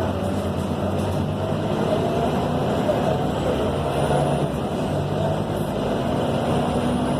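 Scania K270 city bus heard from inside the cabin while under way: the diesel engine runs steadily with a low drone, over road noise.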